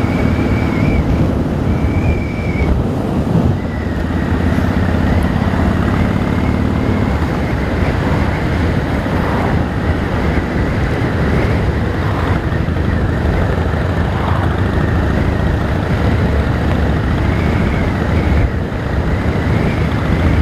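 Harley-Davidson V-twin motorcycle engine running steadily while riding, with wind rushing over the microphone.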